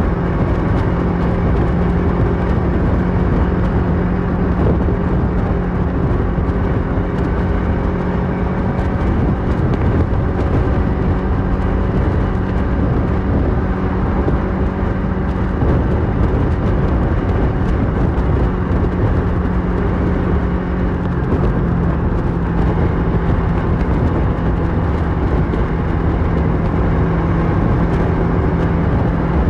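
2008 Kawasaki Versys 650's parallel-twin engine running through a Mivv slip-on exhaust at a steady cruise, its note dipping slightly about three-quarters of the way through, over a steady rush of wind and road noise.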